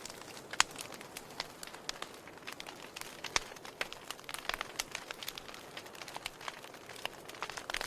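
Wood fire in a fireplace crackling: irregular sharp pops and snaps over a soft steady hiss, the loudest about half a second and three and a half seconds in.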